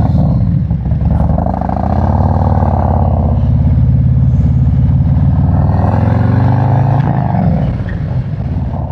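Harley-Davidson V-twin motorcycle engine accelerating away from a green light: its pitch rises over the first couple of seconds, holds steady while cruising, then drops back about seven seconds in as the throttle eases.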